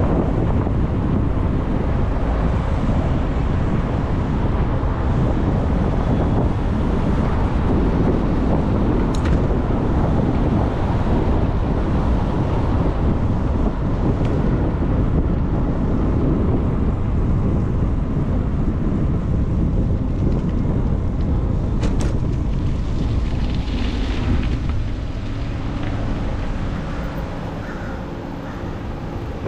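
Wind rushing over the microphone of a camera on a moving e-bike, a steady low buffeting that eases off near the end. Two brief sharp clicks come through, the first about a third of the way in.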